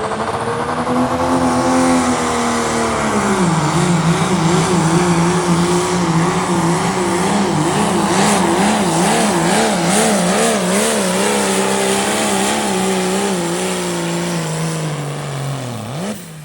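Turbocharged diesel pulling truck's engine at full throttle under the load of the sled. It climbs in pitch at first, then wavers rapidly up and down through the pull, and winds down as the driver comes off the throttle near the end.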